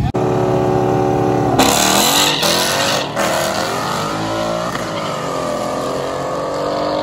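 Car engine revving: a steady pitch, then a loud burst about a second and a half in, then engine pitch rising and falling.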